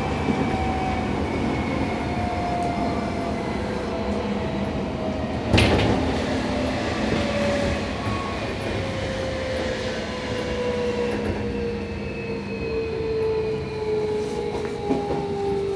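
Toshiba IGBT VVVF inverter and traction motors of a Seibu 6000 series train whining over wheel-on-rail running noise. The whine falls steadily in pitch as the train slows for a station stop. A single sharp knock comes about five and a half seconds in.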